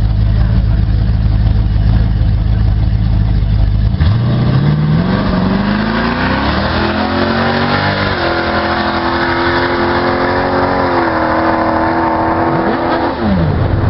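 Twin-turbo Chevrolet S-10 pickup's engine: a heavy low rumble, then about four seconds in it accelerates hard, its note climbing through several gear changes, holding steady, and dropping near the end as the throttle is lifted.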